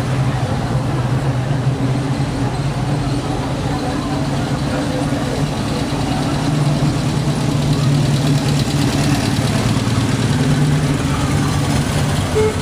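A motor vehicle engine running steadily at low revs, a continuous low hum.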